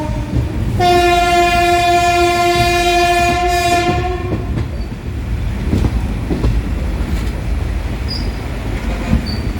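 Train horn sounding one held note for about three seconds, starting about a second in. It is followed by the low rumble and clatter of the train's wheels on the rails.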